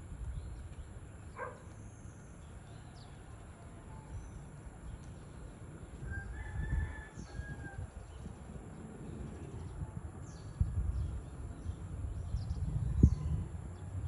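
Faint bird calls outdoors: a short call about a second in, a longer call of about a second around the middle, and scattered high chirps. These sit over a low rumble, with a sharp thump near the end.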